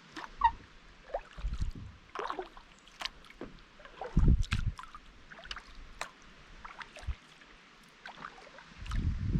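Kayak paddle strokes in calm lake water: small irregular splashes, with drips and trickles running off the blade. A louder low rumble comes in near the end.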